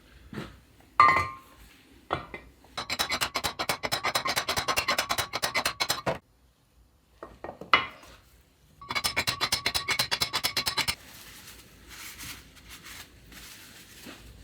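Hand tool working metal parts on a Land Rover Series gearbox: two runs of rapid, even metallic clicks, about seven a second, each lasting a few seconds, with single knocks of tool and parts between them.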